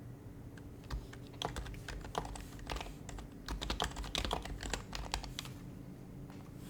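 Typing on an HHKB Professional HYBRID Type-S keyboard with silenced Topre capacitive switches: a quick run of keystrokes that starts about a second in and stops about a second before the end.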